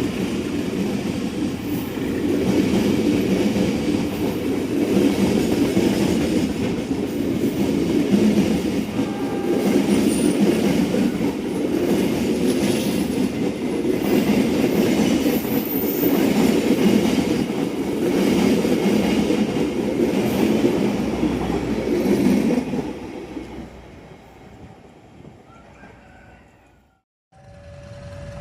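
A train running past on the rails: a loud, steady rumble of wheels on track for about twenty seconds, then fading away. The sound drops out briefly near the end.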